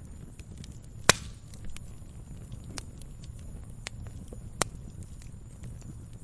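Campfire crackling: burning wood gives scattered sharp pops over a low steady rumble of flame. A loud pop comes about a second in and another near the end.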